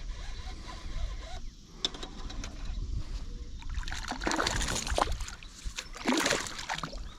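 Water splashing in two loud bursts, about four and six seconds in, as a hooked fish thrashes at the surface beside the kayak, over a steady low wind rumble on the microphone.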